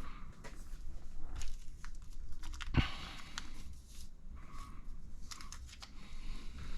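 Plastic kit parts bag crinkling and tearing as it is worked open, with irregular small crackles and clicks and one sharper knock a little under halfway through.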